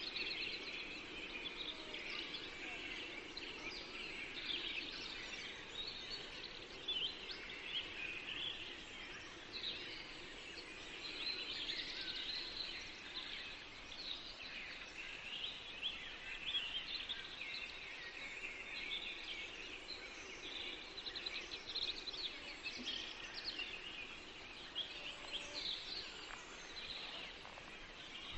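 Forest songbirds singing and chirping, many short overlapping calls and trills without a break, over a faint steady low background.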